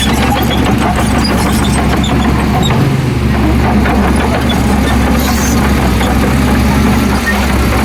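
Heavy diesel earthmoving machinery running steadily, with dense rattling and clatter over a low engine sound.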